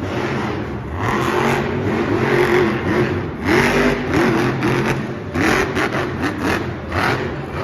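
Monster truck engine revving hard again and again, its pitch climbing and dropping several times, with loud rushes of noise over it.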